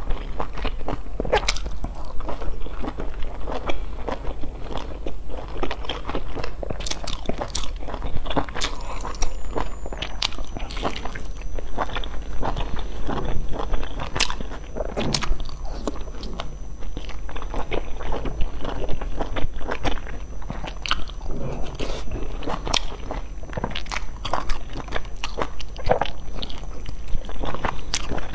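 Close-miked mouth sounds of a person biting and chewing soft dumplings dipped in sauce: dense, irregular sharp clicks and smacks. A steady low hum runs underneath.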